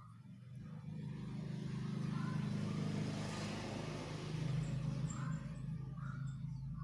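A motor vehicle engine running nearby: a steady low hum, with a rush of noise that builds to about halfway through and then fades, like a vehicle passing.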